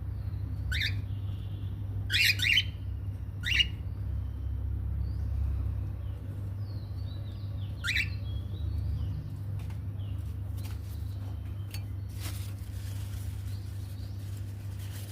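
Cockatiel chick giving short, sharply rising squawks, about five loud ones in the first eight seconds with fainter chirps between them, over a steady low hum.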